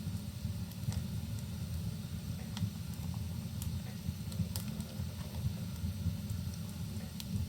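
Wood fire crackling in a fireplace, scattered sharp pops over a steady low rumble of rain and fire.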